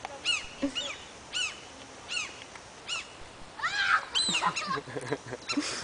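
Seagulls giving repeated short, arching alarm cries, spaced singly at first and then bunching into a quicker flurry about two-thirds through: adult gulls defending a chick nearby.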